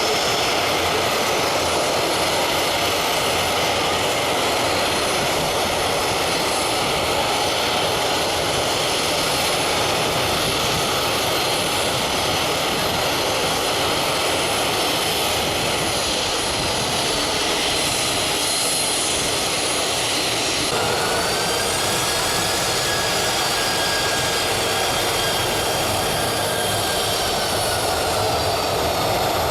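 Jet engines of a Boeing 737-300 (CFM56 turbofans) running at low power, a steady loud roar with a faint whine. About two-thirds of the way in, a higher whine rises, holds, then fades near the end.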